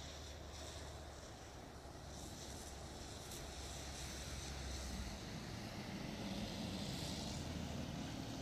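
Steady outdoor rumble and hiss that slowly grows a little louder, with no distinct events.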